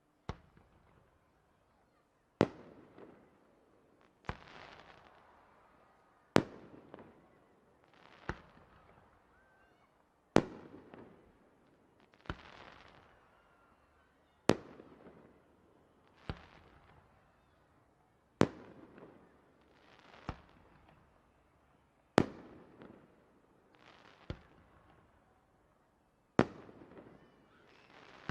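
Aerial firework shells bursting in a steady sequence, one sharp bang about every two seconds, alternating louder and softer. Each bang trails off in a short crackling hiss.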